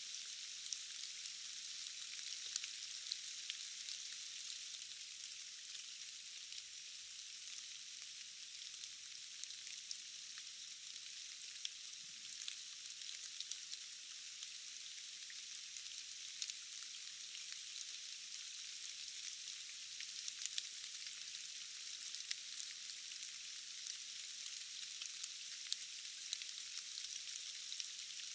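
Steady rain falling: a dense, high hiss scattered with many small ticks of individual drops, with no low rumble.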